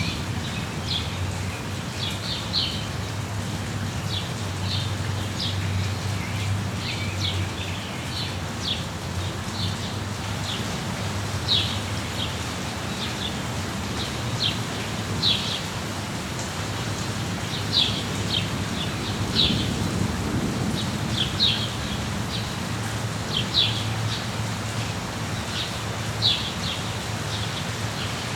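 Steady rain with a low rumble underneath, and small birds giving short, high chirps every second or two.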